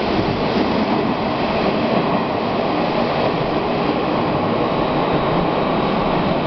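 Hanshin 8000 series train running out of an underground station into the tunnel: a steady, loud noise of the cars and wheels on the rails, echoing off the tunnel walls.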